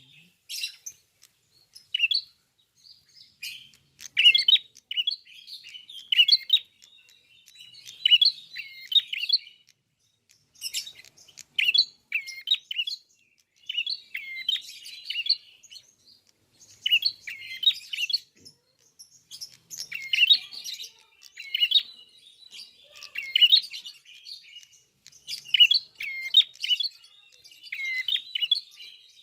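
Prinia (prenjak) singing: bursts of quick, high chirping notes repeated every second or two, with short pauses between.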